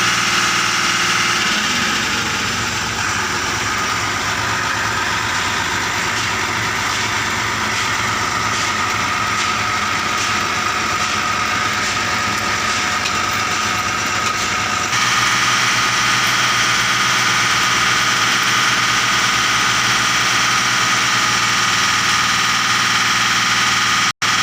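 Truck engine running steadily. The sound changes abruptly about 15 seconds in and cuts out for an instant near the end.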